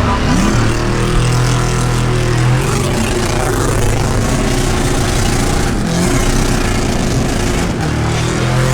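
V8 engine revving hard and held at high rpm, as in a burnout. It climbs quickly at first, holds steady, and drops briefly near the end before picking back up.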